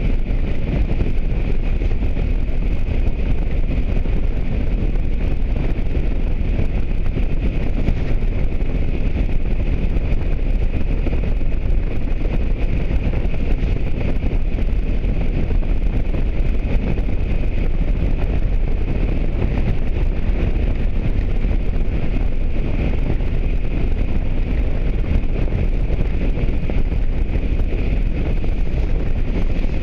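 Motorcycle on the move: steady wind rush over the microphone with engine and road noise underneath and a faint steady high tone, unchanging throughout.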